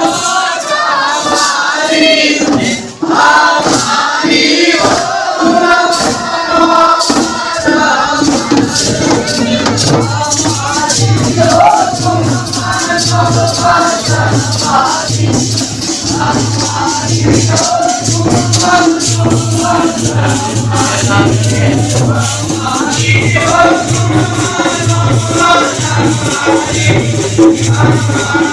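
Holi folk song: voices singing over rhythmic shaker and cymbal-like percussion. About a third of the way in, a pulsing low drum beat joins.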